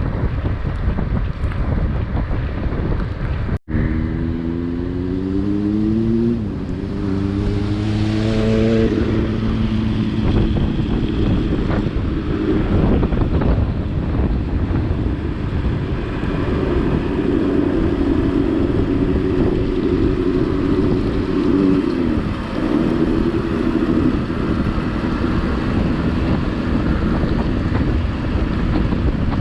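Wind buffeting the microphone throughout. A vehicle engine revs up about four seconds in, drops back and revs up again, then settles into a steadier running note with a brief dip in pitch past the twenty-second mark.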